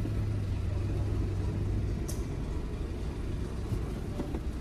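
Low, steady rumble of a running vehicle engine heard inside a car's cabin, easing off about halfway through, with one short click about two seconds in.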